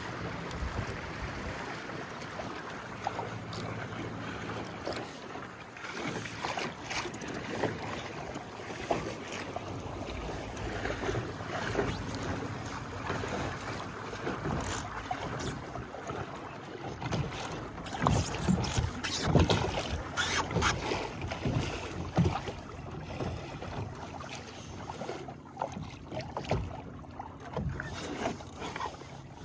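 Water slapping and splashing against the hull of a small sailing dinghy under way, with wind on the microphone. The splashing is irregular and heaviest about two-thirds of the way through.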